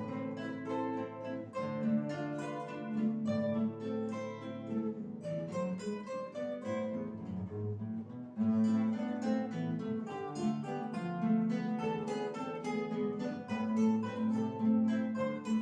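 A guitar ensemble playing a piece of music together, plucked notes and chords from several acoustic guitars. The playing thins out and softens a little past the middle, then all the parts come back in more fully.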